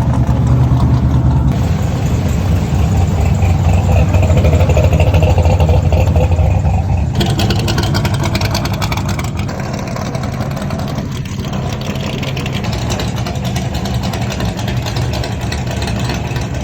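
Muscle car engines running loud through their exhausts, with a low, pulsing rumble. The sound changes abruptly about seven seconds in and is a little quieter afterwards.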